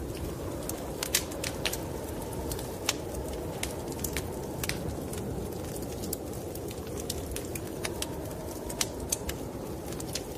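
Wood fire crackling in a fireplace, with irregular sharp pops, the loudest about a second in, over a steady low rush of snowstorm wind.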